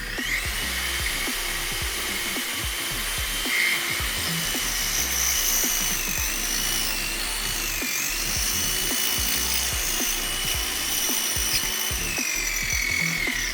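Aegon AD602 230 W corded electric drill running: its motor whine rises at once as it spins up, dips in pitch twice in the middle as the bit takes load, and winds down near the end. Background music plays throughout.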